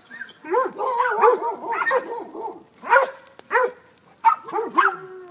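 Dogs barking repeatedly, a dense run of quick overlapping barks in the first two seconds, then single barks spaced out.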